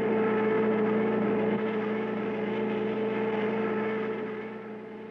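Cartoon sound effect of the Mach 5 race car's engine: a steady, even hum that eases off slightly near the end.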